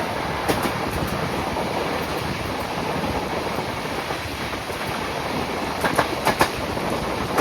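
Passenger train running at speed: the steady rumble of the coach's wheels on the rails, with a few sharp clicks over rail joints, a quick group of three about six seconds in.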